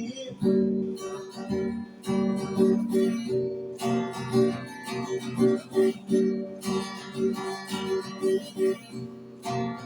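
Acoustic guitar strumming a steady rhythmic chord pattern, an instrumental passage between sung refrains.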